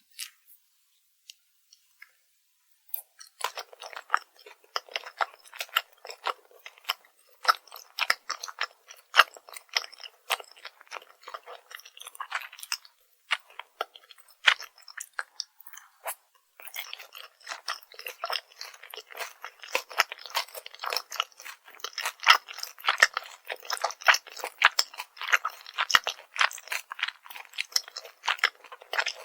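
Close-miked crunching and chewing of crispy fried food: a dense run of sharp crunches that begins about three seconds in, with a couple of short pauses partway through.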